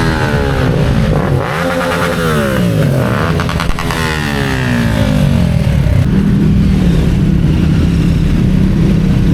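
Several motorcycles riding past one after another, each engine note dropping in pitch as it goes by. From about six seconds in, a steady engine note holds.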